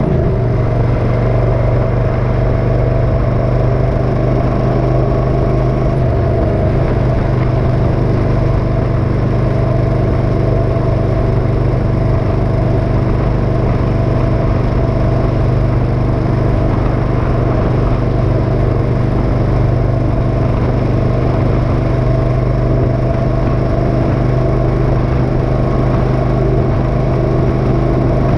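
Motorcycle engine running at a steady speed, loud and even throughout.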